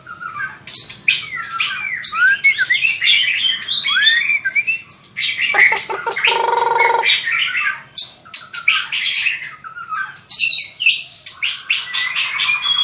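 White-rumped shama singing a fast, varied song of whistles, chirps and gliding notes. About six seconds in comes a harsh buzzing call, and near the end a rapid trill.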